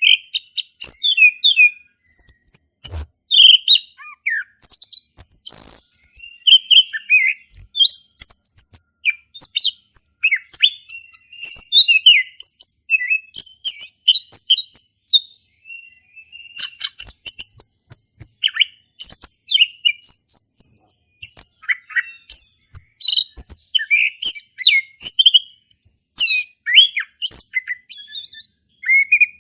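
Male chestnut-capped thrush (anis kembang) singing a fast, continuous, varied song of high, clear notes, with one short pause about halfway through.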